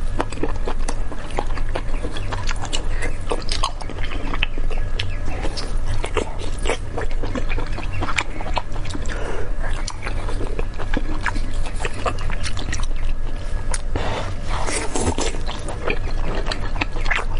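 Close-miked chewing and biting of braised intestines, with frequent small irregular mouth clicks and wet noises, over a steady low hum.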